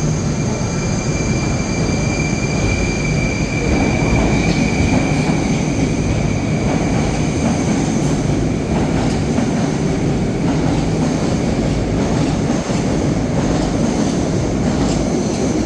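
Moscow Metro train running on the track with a steady rumble, a high thin wheel squeal sounding through the first few seconds and then fading.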